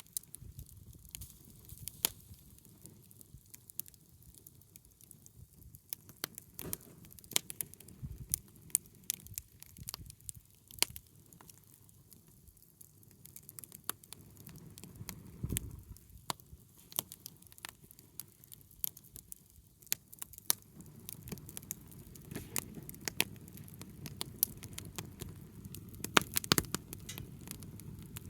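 Wood fire crackling, with sharp pops at irregular intervals over a low, steady rumble that grows louder in the second half.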